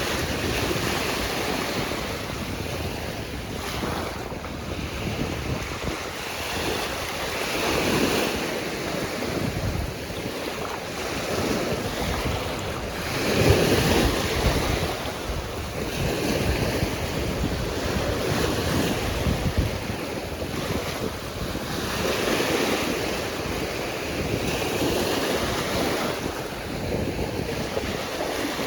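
Ocean surf: waves breaking and washing in, swelling every few seconds, with wind buffeting the microphone. The biggest swell comes about halfway through.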